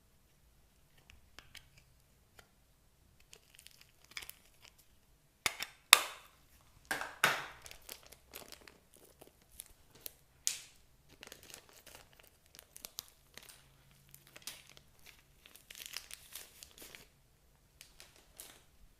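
Old slime being mixed and kneaded by hand: irregular sticky crackles and clicks, loudest in a cluster about six seconds in.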